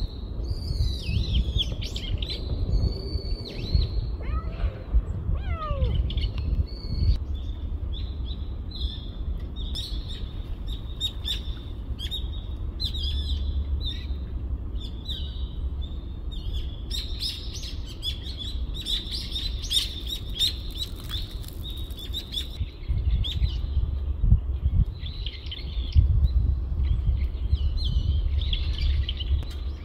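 Small birds chirping and twittering: many short, high chirps, several a second, thickest about two-thirds of the way in. A steady low rumble runs underneath.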